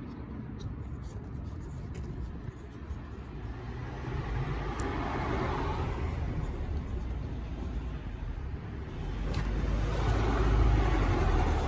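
Road vehicles passing by, one swelling up and fading about halfway through and a louder one near the end.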